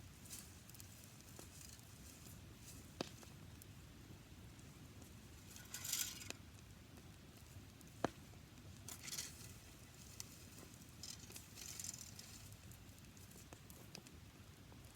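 Small campfire of dried grass crackling faintly, with a few sharp pops, the loudest about eight seconds in, and short bursts of hissing as the grass flares.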